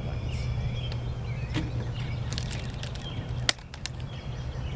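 Rubber bands being stretched and snapped around a watermelon: a few sharp snaps, the loudest about three and a half seconds in, over a steady low rumble.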